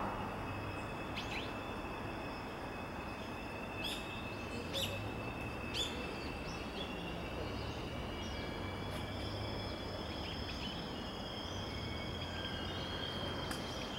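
Outdoor garden ambience: a steady hiss and low hum, with birds chirping briefly several times, mostly around four to six seconds in, and thin steady high-pitched tones.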